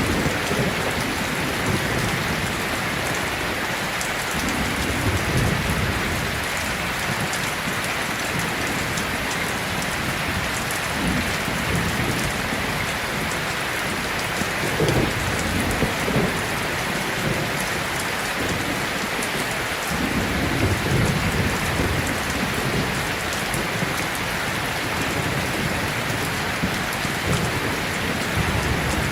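Steady rain falling, an even hiss with no break, with low rumbles of distant thunder swelling several times.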